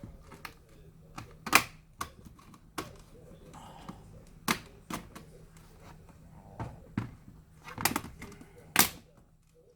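Irregular plastic clicks and taps as an ASUS X453M laptop is taken apart by hand, its case clips pried and its parts handled; the sharpest clicks come about one and a half seconds in and near the end.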